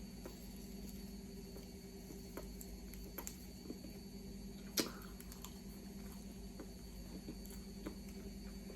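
Close-miked eating sounds: scattered small wet clicks and crunches of chewing, with one sharper click about halfway, over a steady low hum.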